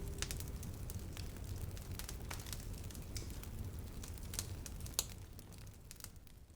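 Charcoal fire crackling, with irregular sharp pops over a low rumble, fading out near the end.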